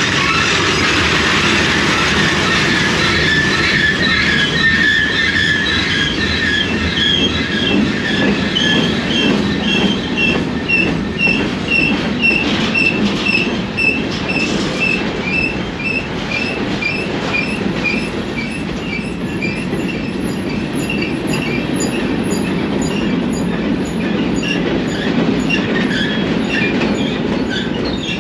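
Train rolling past with steady rumbling wheel-and-rail noise. Short high-pitched squeals repeat at an even beat through most of it.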